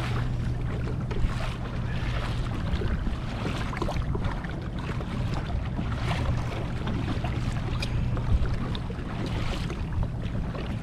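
Wind on the microphone and choppy sea water sloshing against a fishing kayak's hull, with two brief knocks: one about a second in, one near eight seconds.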